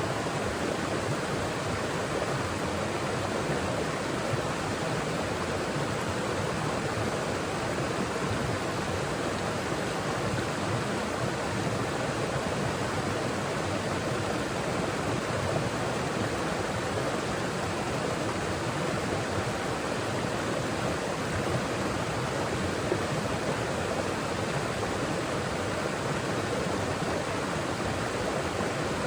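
Forest stream running over rocks: a steady rushing of flowing water.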